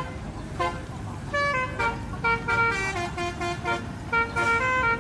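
Truck's musical air horns playing a tune of short held notes, a few scattered notes at first and then a quick run of notes from about two seconds in, over the low rumble of the engine.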